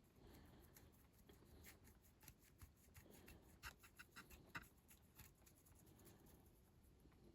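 Faint scratching and rubbing of small hand work on a diecast toy model, with a quick run of light clicks and taps about halfway through.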